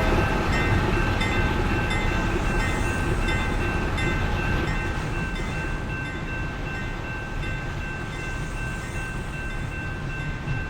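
A train rolling past with a steady low rumble that slowly fades, joined by two steady high ringing tones and faint regular ticks about twice a second.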